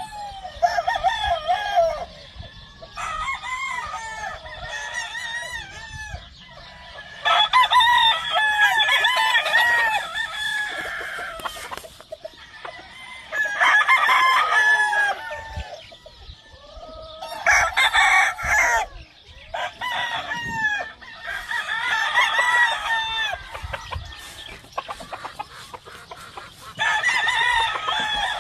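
Several roosters crowing over and across one another in repeated loud bouts, with chickens clucking between the crows.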